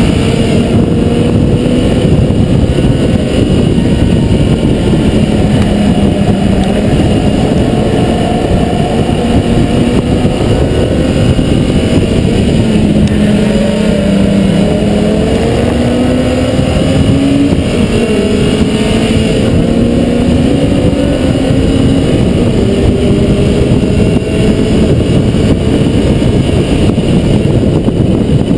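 Mazda MX-5 NB's 1.8-litre four-cylinder engine driven hard on track. Its note climbs steadily under acceleration, drops back at upshifts and when slowing for corners, then climbs again, several times over. Under it runs a constant loud rush of wind and road noise.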